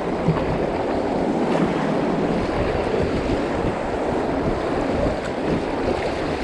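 Steady rush of fast-flowing river water around a kayak on a river running high, with wind buffeting the microphone. The rush sets in suddenly at the start.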